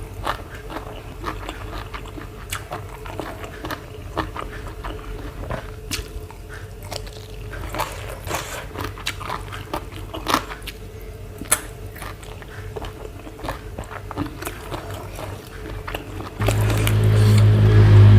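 Close-miked eating sounds: chewing and biting of spicy seafood papaya salad, with frequent short sharp crunches and smacks. About two seconds before the end a loud, steady low sound comes in.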